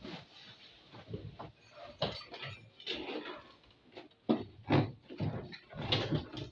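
Irregular knocks, clatter and short scrapes of tools and parts being handled on a washing machine's spin-dryer section during a motor replacement. The hardest knocks come past the middle.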